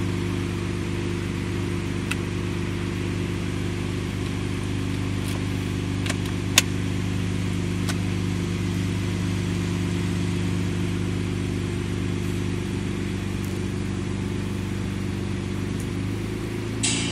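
BMW car engine idling steadily, with a few faint clicks and one sharp click about six and a half seconds in.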